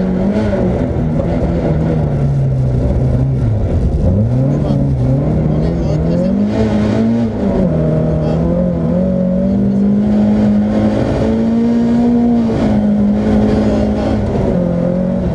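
Mercedes-Benz 190E 2.3-16V's 16-valve four-cylinder engine driven hard on a rally stage, heard from inside the cabin. The revs climb and fall through the gears, dropping sharply and picking up again about four seconds in, then pulling high and holding before falling back near the end.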